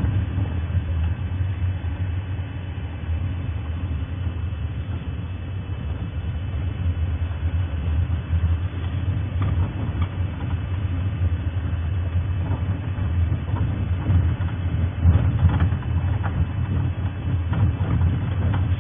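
Safari game-drive vehicle's engine running steadily while driving, a continuous low rumble.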